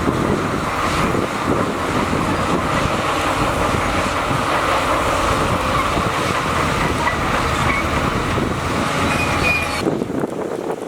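Heavy earthmoving machine's diesel engine running steadily, with a continuous mechanical clatter; the sound changes abruptly near the end.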